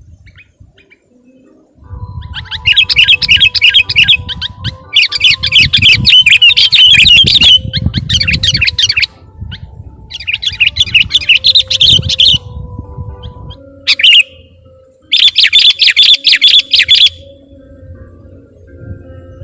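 Sooty-headed bulbul (kutilang) singing in loud bursts of fast, chattering notes, four runs of two to three seconds and one short phrase, separated by pauses.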